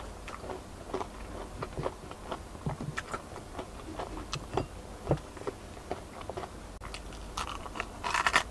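A person eating gravy-dipped fried chicken close to the microphone: soft, wet chewing clicks throughout, then a louder bite into the chicken near the end.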